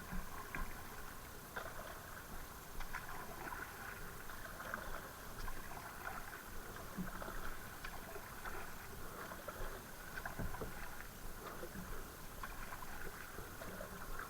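Water splashing and dripping around a kayak on a river, with many small irregular clicks and splashes, typical of a paddle dipping and water running off it.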